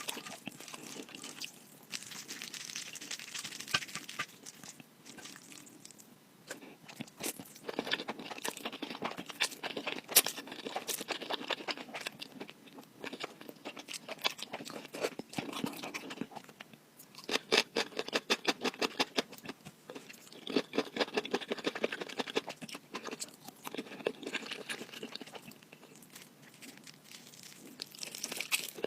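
Close-miked eating: clusters of crunchy bites and chewing, separated by short pauses.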